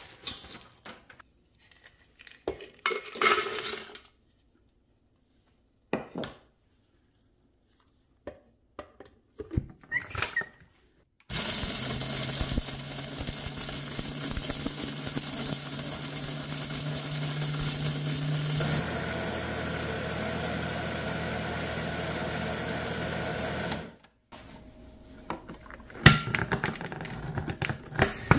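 Electric blender grinding a crisp, dried ingredient, running steadily for about twelve seconds; partway through, its tone drops and settles, then it stops suddenly. A few knocks and clicks of handling come before and after it.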